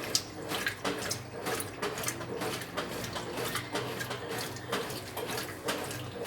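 Brastemp 9 kg washing machine running mid-cycle: water sloshing over a steady low motor hum, with irregular clicks and knocks throughout.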